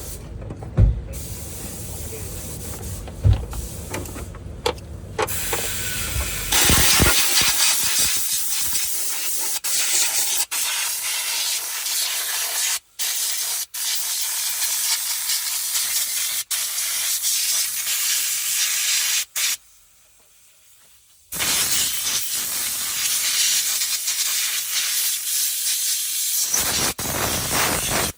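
Pressurised cleaning spray hissing from a nozzle in long bursts, cut off briefly several times and paused once for about a second and a half. Before it starts, a low rumble with a few knocks.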